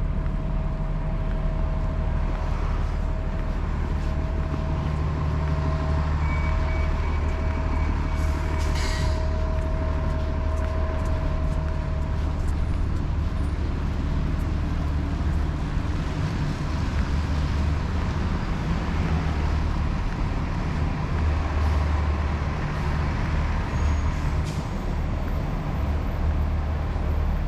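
Heavy vehicle's engine running close by with a steady low rumble and a held whine, and a brief hiss of air about nine seconds in.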